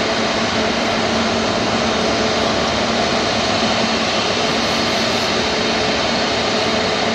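Jet airliner engines running steadily: an even noise with a constant whine of several steady tones, unchanging in level throughout.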